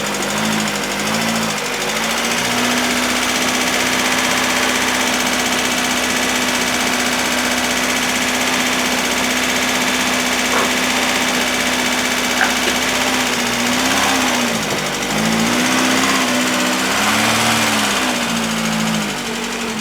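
Austin Princess engine running on high choke while the car is manoeuvred, its revs rising and falling in the first couple of seconds and again in the last third, steady in between.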